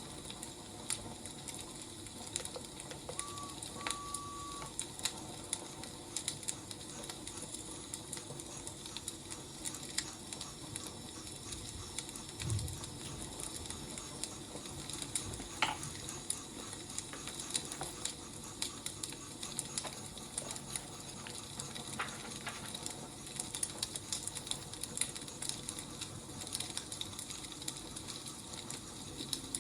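Wood fire burning: a steady soft hiss with frequent small crackles and pops of firewood, and one soft low thump about twelve seconds in.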